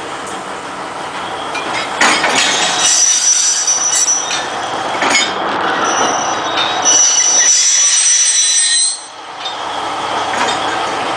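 Narrow-gauge forest railway carriages being shunted by a DL50 diesel locomotive: steel wheels squeal in high, steady tones from about three seconds in, with a few sharp knocks. The squeal stops suddenly near nine seconds, leaving a lower rumble.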